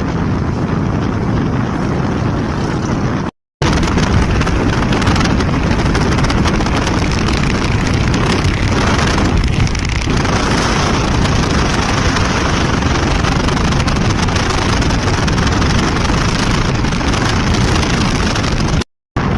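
Wind blowing over the microphone, mixed with the engine and road noise of a motorcycle being ridden. The sound cuts out to silence twice for a moment, about three and a half seconds in and near the end.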